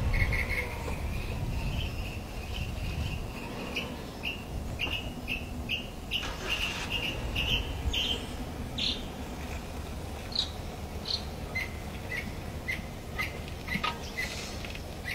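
Wild birds calling, a run of short high chirps repeated quickly at first and then more sparsely, over a steady low rumble.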